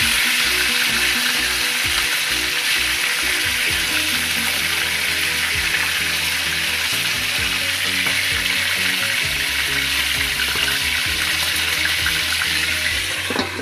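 Chicken legs frying in hot oil, a loud, steady sizzle that eases just before the end.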